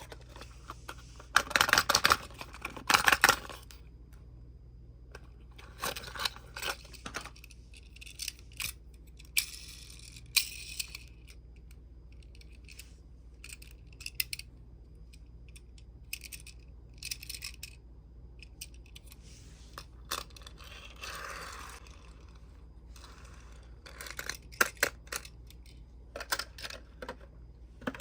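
Tomica die-cast minicars and a plastic toy truck handled on a tabletop: scattered clicks, clinks and rattles, loudest in a busy cluster a couple of seconds in. A low steady hum runs underneath.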